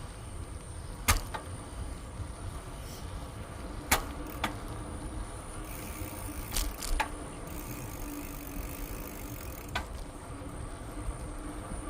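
Bicycle riding along a trail: a steady low rumble of rolling and air, broken by sharp clicks or rattles about six times, the loudest about a second in and about four seconds in.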